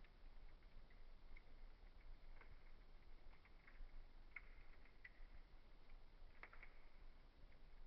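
Faint crackling of a wood fire in a fireplace: scattered small pops over a low hiss, with one sharper pop a little after six seconds in.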